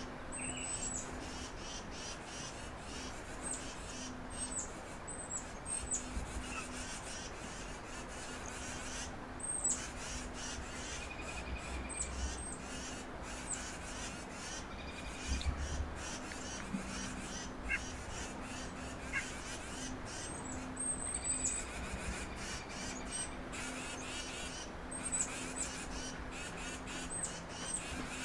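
Wild birds calling at a backyard feeder: short, high chirps repeated again and again, with other calls lower down, over a steady low hum.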